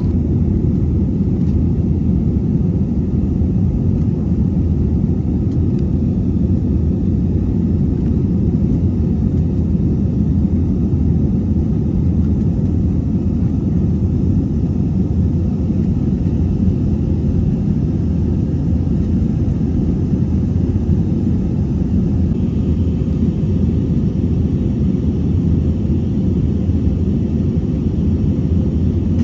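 Steady low rumble of an airliner heard from inside the passenger cabin, constant throughout.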